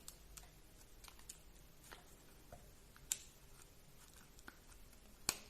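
Faint, scattered clicks and taps of small plastic RC car suspension parts and pins being handled and test-fitted by hand, with one sharper click about five seconds in.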